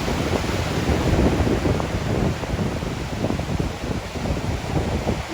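Ocean surf with wind buffeting the microphone, a steady rushing noise with gusty low rumbles.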